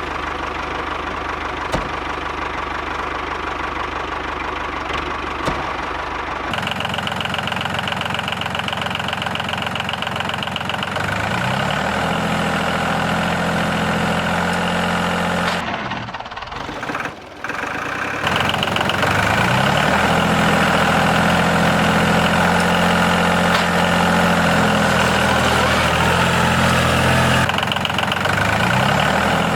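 Engine running steadily, rising in pitch as it revs up about twelve seconds in and again near nineteen seconds. The sound changes abruptly a few times where the footage is cut.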